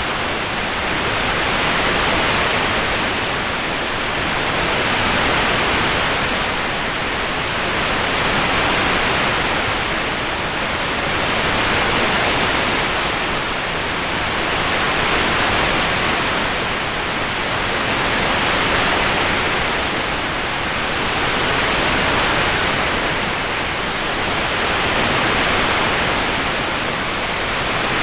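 Rain soundscape: a dense, steady hiss of falling rain that swells and fades gently about every three and a half seconds.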